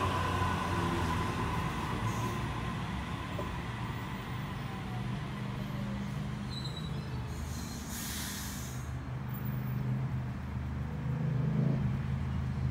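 Sydney Trains double-deck electric train slowing to a stop at a platform. A thin wheel squeal fades over the first few seconds under a steady low running hum, then a short hiss of air comes about eight seconds in.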